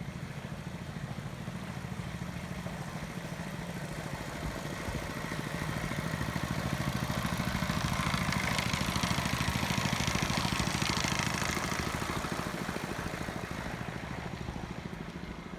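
The engine of a long-tail boat passing along the canal, growing louder to a peak about halfway through and then fading away. A rushing hiss joins it at its loudest.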